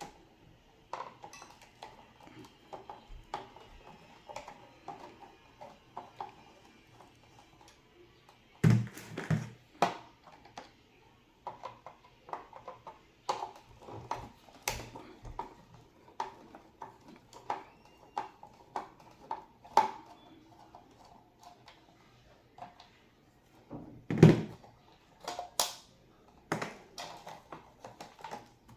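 Scattered clicks, taps and knocks of hard parts being handled as an impulse bag sealer is taken apart, with a couple of louder thumps about nine seconds in and near the end.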